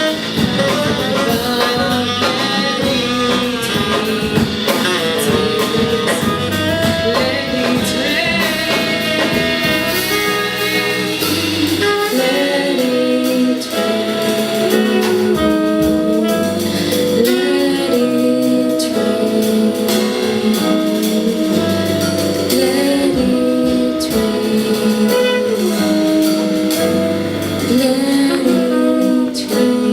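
Jazz-pop band playing live: a tenor saxophone carries a melodic line over piano, bass and drums.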